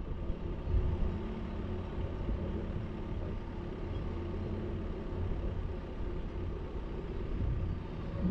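Vehicle driving, a steady low engine and road rumble with a faint even hum.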